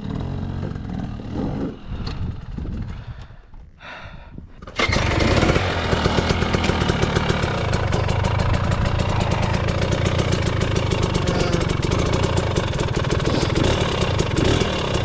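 Dirt bike engine running. It is quieter and fading over the first few seconds, then abruptly loud and steady from about five seconds in.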